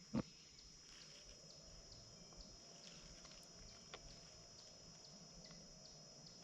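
Near silence: faint outdoor background with a steady high hum and a faint tick about twice a second, and one short click just after the start.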